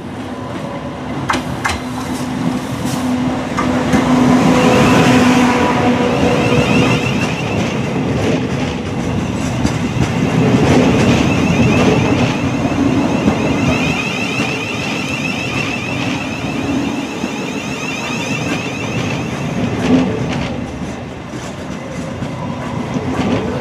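Thameslink Class 700 electric multiple unit running slowly into a terminus platform and passing close by. It gives a steady electric hum and, from about four seconds in, a high whine, with a few clicks early on.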